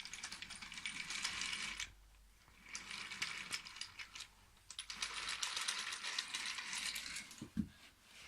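Wooden toy train rolling along wooden track, its wheels rattling and clicking over the bumpy joints in three runs with short pauses between. A single low thump near the end.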